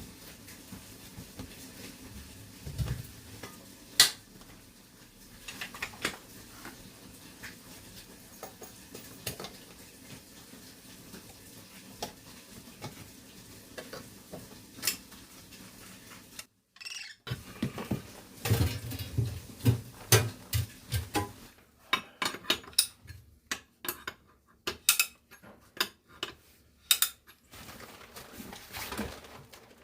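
Metal tools and parts clinking and knocking in irregular taps, scattered at first and coming thick and fast in the second half, as pipe work is done.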